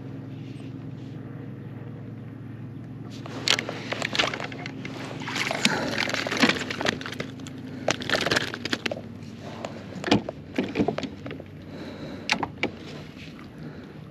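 Water splashing and sloshing with irregular knocks against a kayak as a bass is landed and handled aboard. The sound starts a few seconds in and comes in uneven bursts, with one heavy knock near the end.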